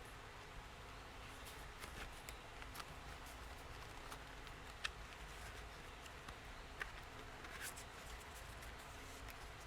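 Paper and craft supplies being handled while decorating a journal: scattered light taps and rustles, the sharpest clicks about five and seven seconds in, over a steady low background hum.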